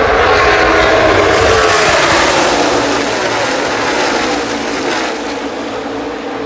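Pack of NASCAR stock cars racing past at full speed: a loud engine drone that drops in pitch as the cars go by, then eases off.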